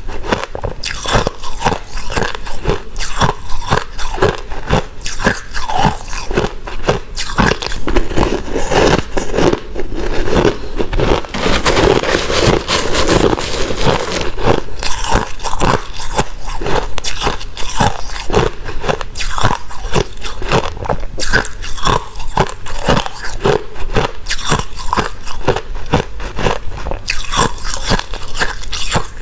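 Someone biting and chewing white crunchy ice, a dense run of irregular crunches that grows thicker and louder for a few seconds about twelve seconds in.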